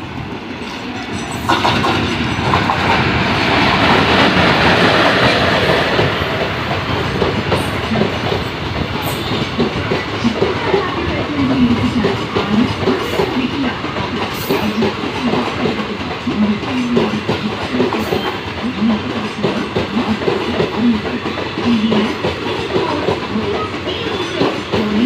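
A passenger train hauled by a WAP-4 electric locomotive runs through a station. The sound swells over the first few seconds as the locomotive comes past, then settles into the steady rumble and rhythmic clickety-clack of coach wheels over the rail joints.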